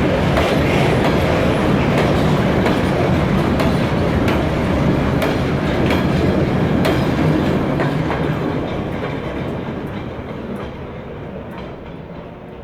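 Freight train wagons rolling past, their wheels clicking over the rail joints. The sound holds steady, then fades away over the last few seconds as the train draws off.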